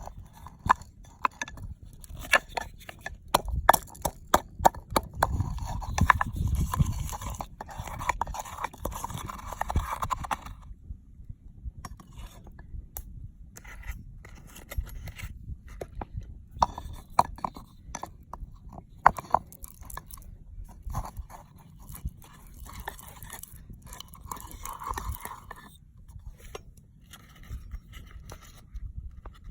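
Irregular clicks, knocks, crunching and scraping, the busy handling of food and utensils during cooking. They are densest in the first ten seconds, then come more sparsely after a short pause.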